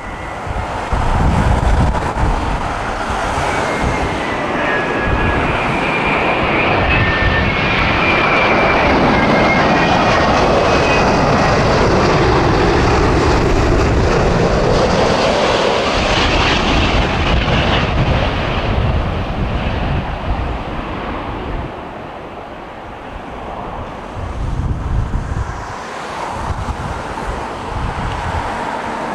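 Twin-engine Boeing wide-body jet airliner flying past on its approach to land. The jet noise swells, with a high fan whine in the first several seconds, is loudest through the middle, then fades. Wind buffets the microphone underneath.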